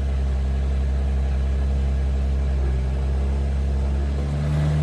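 Jeep Wrangler engine running steadily with a low drone. Its note shifts slightly near the end.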